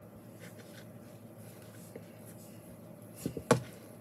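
Slime being handled and pressed by hand, with faint ticks and a sharp click about three and a half seconds in.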